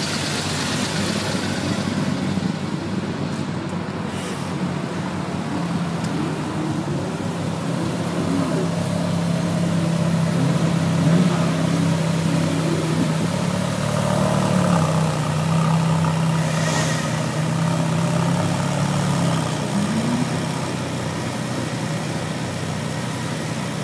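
Several Ferrari sports cars creeping past in a slow queue, engines running at low revs with a steady low drone that drops away about four-fifths of the way through.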